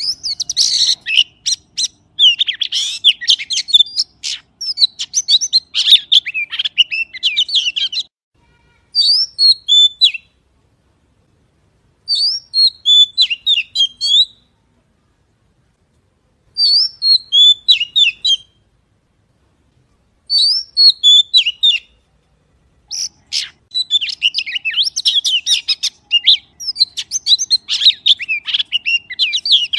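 A magpie singing in quick, varied chirping phrases. Dense song gives way in the middle to short separate phrases about every three to four seconds with silences between, then turns dense again about three-quarters of the way through.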